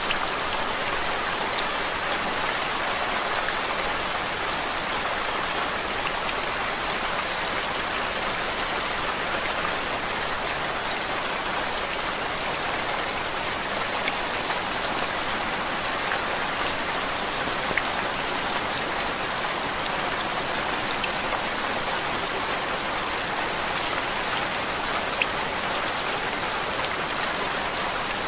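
Steady rain falling, a dense even hiss with faint scattered drop ticks, used as white noise.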